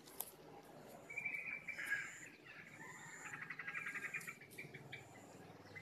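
Birds chirping, with a longer run of rapid trilled notes about three seconds in and a few short, thin, high whistles.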